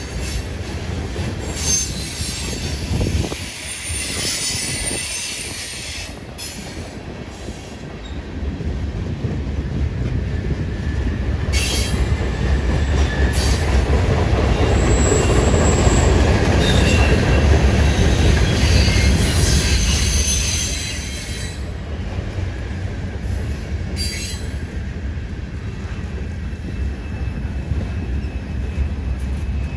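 Mixed freight train of tank cars and hoppers rolling past close by: a continuous low rumble of steel wheels on rail, louder in the middle, with scattered high wheel squeals and a few sharp clacks.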